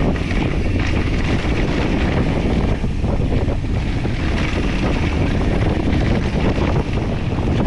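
Wind rushing over the microphone with the steady rumble and clatter of a mountain bike rolling fast over a dirt trail.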